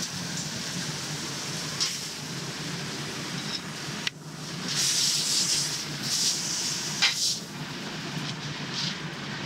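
Harissa-rubbed lamb chops sizzling in a hot ridged griddle pan, a steady hiss. After a short break about four seconds in, the hissing comes back louder in spells, with a sharp click a little after seven seconds.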